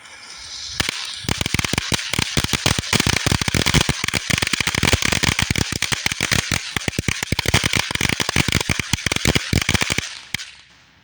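Consumer fireworks fountain going off: a hissing spray with a dense, rapid crackle of sharp pops from about a second in, dying away near the end.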